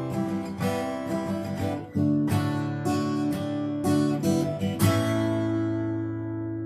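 Acoustic guitar strummed through the song's instrumental outro. About five seconds in, a final A major chord is struck and left ringing, slowly fading.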